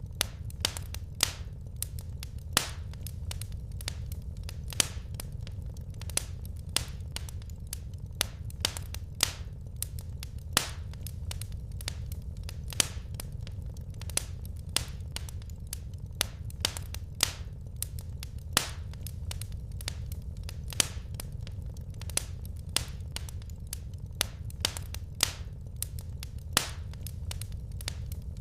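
Wood fire crackling: irregular sharp pops and snaps of burning logs over a steady low rumble of flame.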